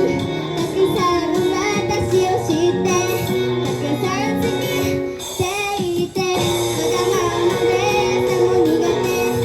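A young female idol singing a J-pop song live with instrumental accompaniment, the music dipping briefly just after the middle.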